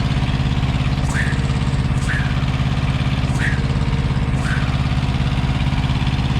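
Semi truck's diesel engine idling steadily, running again after its cooling system was refilled and bled. Four or five short high chirps sound about once a second over it.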